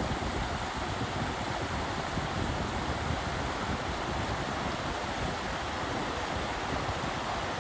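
Steady wind and water noise, with wind rumbling on the microphone.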